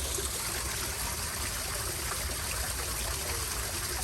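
Running water: a steady rushing trickle.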